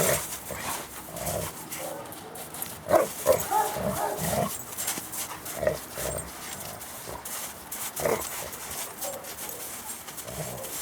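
Dogs playing rough together, giving short vocal sounds every second or so over scuffling noise, loudest a few seconds in.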